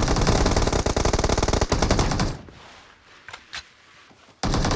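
Video game automatic gunfire. A long rapid burst stops a little after two seconds in, two short sharp sounds follow in the lull, and another rapid burst begins near the end.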